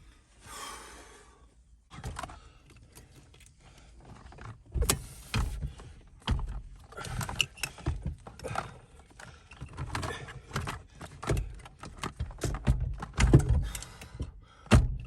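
Hands working car parts: a run of irregular knocks, clicks and rattles, growing busier and louder about five seconds in.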